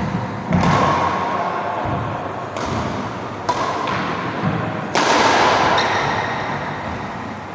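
Badminton rally: a racket strikes the shuttlecock in sharp hits one to two seconds apart, four in all, over a steady background noise.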